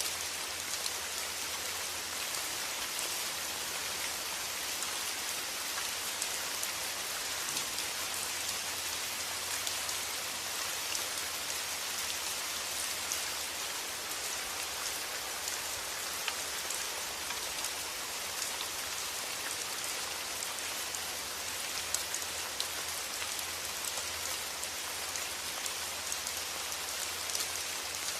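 Steady rain falling, an even hiss with scattered individual drop ticks, over a faint low steady rumble.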